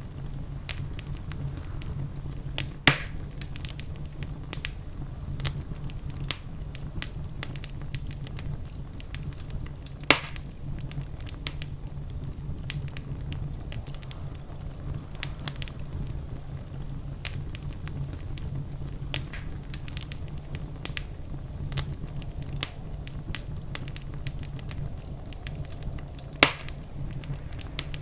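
Wood fire in a fireplace crackling with frequent small snaps over a steady low rumble, with three louder sharp pops spread through.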